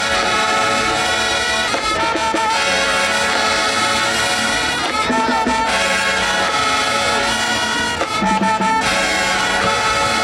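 A marching band's brass section playing loud sustained chords with trumpets and trombones over drums.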